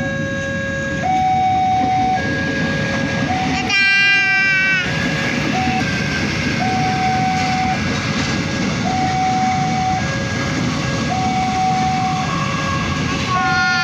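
Train approaching through a station with a steady rumble. Its horn sounds for about a second some four seconds in and starts again at the very end. Under it a two-tone warning signal alternates high and low about once a second.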